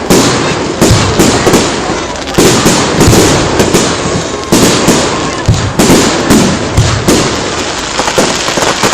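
Fireworks display going off in a steady barrage: loud bangs every half second or so over a continuous crackle.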